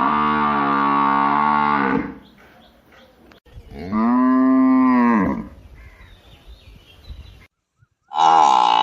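Cows mooing: a long moo that ends about two seconds in, a second moo in the middle that rises and falls in pitch, and another that starts suddenly near the end.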